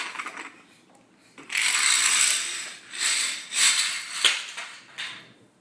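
Toy trucks rolling and clattering on a hard surface: several rattling runs, the longest about a second, with sharp clicks near the end.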